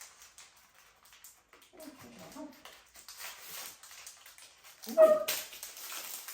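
A pet dog whimpering, then a short, sharp yip about five seconds in, with rustling over it.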